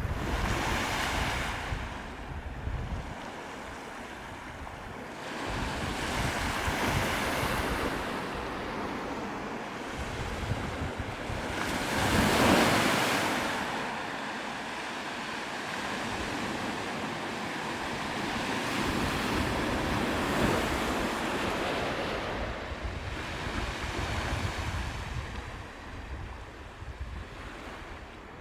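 Sea waves washing onto the shore, swelling and ebbing in surges, with the loudest surge about halfway through. Wind rumbles on the microphone at times.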